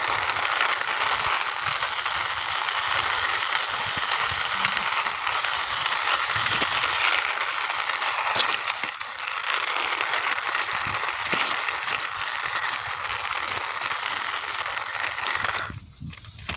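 Plastic toy racing car pushed along a surface by hand: its wheels and axles roll with a steady whirring rattle of fine clicks, which stops abruptly near the end.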